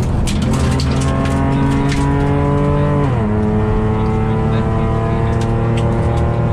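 Mitsubishi Magna VR-X AWD's V6 engine pulling steadily, heard inside the cabin, its pitch climbing slowly. About three seconds in the automatic gearbox upshifts and the engine note drops sharply, then starts climbing again.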